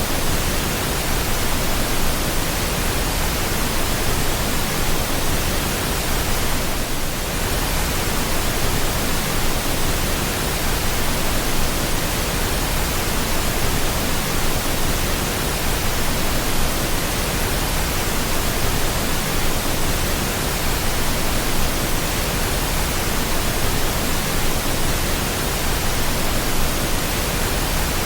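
Continuous pink noise: a steady, even hiss with no changes in level or pitch.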